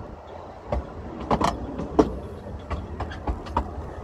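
Brecon Mountain Railway narrow-gauge train running along the track: a low rumble from the wheels on the rails, with irregular knocks and clanks from the running gear and carriage.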